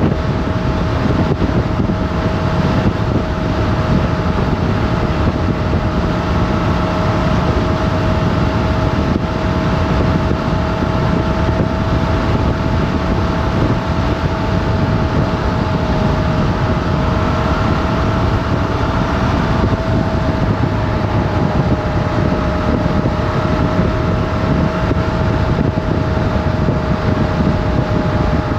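Motorcycle engine running at a steady cruising speed, its note holding nearly constant, under heavy wind rush on the camera microphone.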